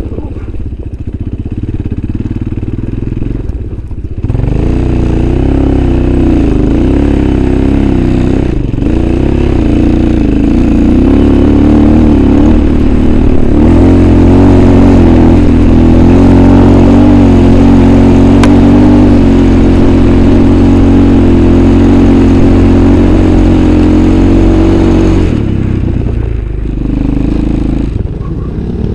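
Motorcycle engine running under load, its revs wavering, rising about four seconds in and again about halfway, holding high, then easing off a few seconds before the end.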